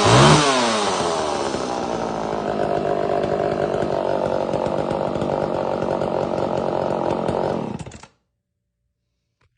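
Vintage Homelite XL-76 two-stroke chainsaw running: its engine speed dips and picks back up at the start, then holds steady before the sound cuts off suddenly about eight seconds in.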